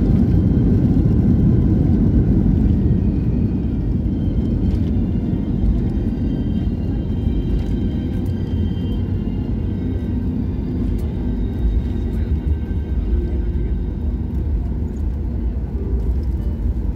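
Steady low rumble of a moving vehicle heard from inside its cabin, easing slightly after the first few seconds.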